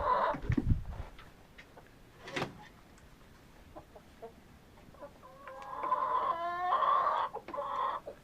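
Chickens vocalising: a short cluck at the start with a few low thumps, then a quiet stretch, then about five and a half seconds in a long loud rooster crow with a rapid stuttering part in the middle, running into more calls.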